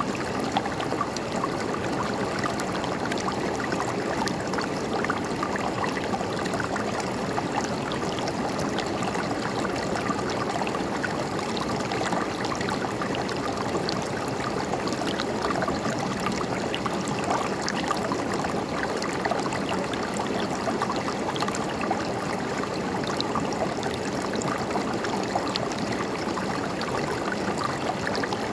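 River water flowing and gurgling over rocks, a steady rushing with many small splashes and trickles.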